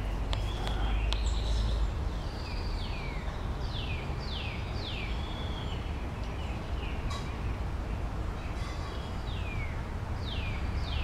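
Songbirds singing in the canopy: a series of quick whistled notes, each sliding down in pitch, given in two bouts, with a short buzzy note near the start and again near the end. A low rumble on the microphone runs underneath, strongest in the first couple of seconds.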